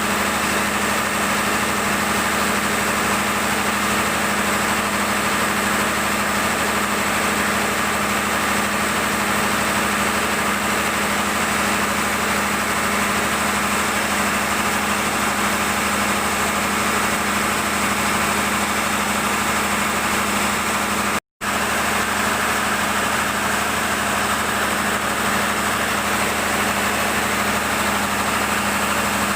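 Cummins generator-set engine running steadily at constant speed, with a brief cut to silence about two-thirds of the way through.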